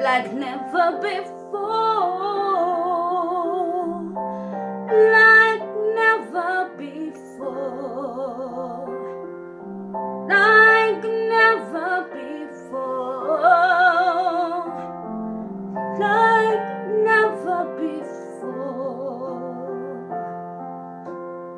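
Music: a woman's voice singing long held notes with vibrato over piano accompaniment, a slow ballad.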